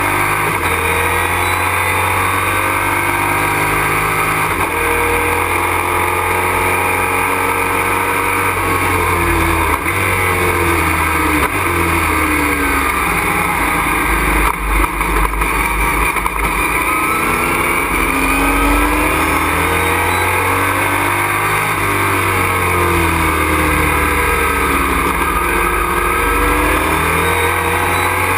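Race truck engine heard from inside the cockpit at racing speed, its revs climbing and falling again and again as it accelerates and changes gear.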